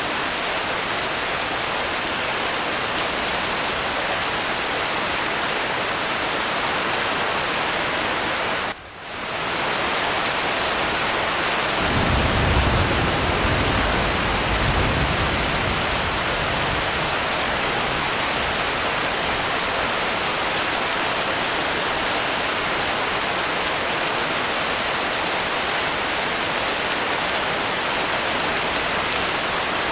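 Steady heavy rain, an even hiss. About nine seconds in it briefly cuts out and swells back, and a few seconds later a low rumble of distant thunder rolls under the rain for about four seconds.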